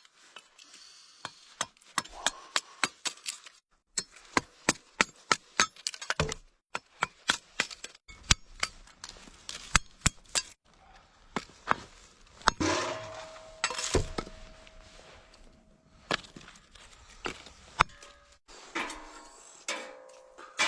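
Firewood and lumps of coal being handled and broken: a long run of sharp cracks and knocks, irregular and at times several a second, with a short stretch of rustling noise about two-thirds of the way through.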